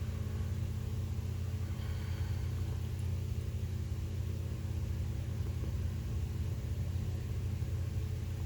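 Steady low droning hum, even in pitch and level throughout.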